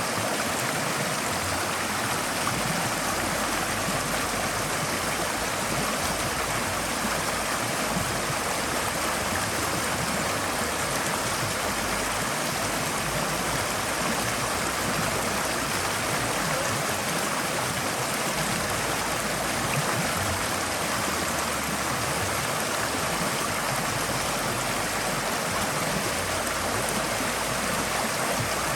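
Forest stream flowing steadily over rocks, a continuous even rush of water with some gurgling.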